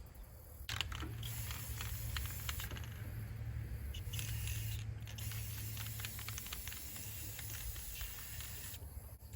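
Aerosol spray-paint can hissing as paint goes on, starting a little under a second in and stopping near the end, with a short break midway and scattered clicks.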